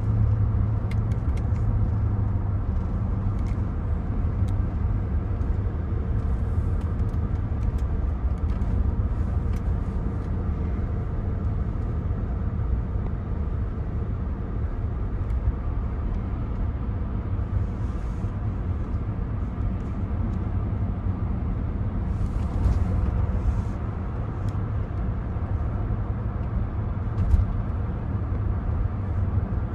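Steady low rumble of a 2024 Cadillac Escalade ESV being driven, mostly road and tyre noise with its 6.2-litre V8 running underneath. There are a few faint ticks, and a single brief knock near the end.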